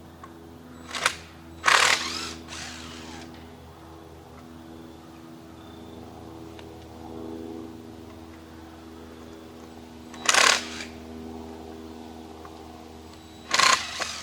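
Stihl MS 391 chainsaw idling steadily, broken by four short loud bursts of noise, the first two about a second apart near the start and two more later on.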